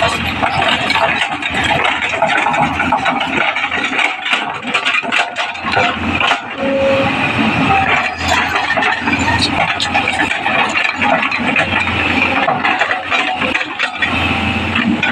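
Excavator engine running under load, with frequent clanks and rattles from the machine as it works the earth.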